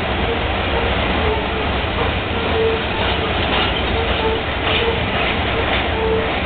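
Loaded rock train's hopper cars rolling steadily past, a continuous rumble of wheels on rail with a thin tone that comes and goes.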